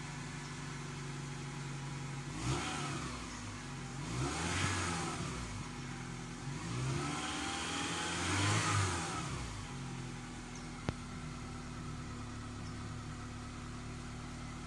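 Honda Accord 2.3L four-cylinder engine idling, revved up and let fall back three or four times, then settling to a steady idle; a single sharp click near the end.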